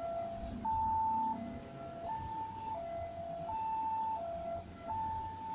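Emergency vehicle's two-tone siren, alternating steadily between a high and a low note about every 0.7 seconds.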